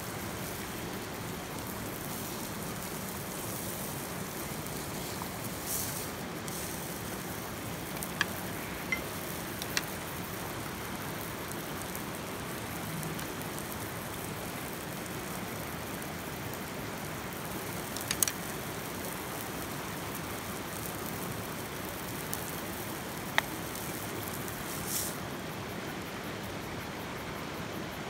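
Steady rushing noise with a few sharp clicks and pops scattered through.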